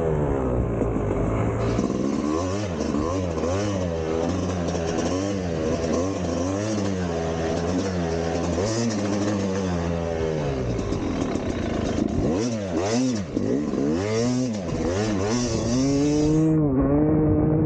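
Two-stroke dirt bike engine revving hard and backing off over and over, its pitch climbing and dropping every second or two as the rider accelerates, shifts and chops the throttle.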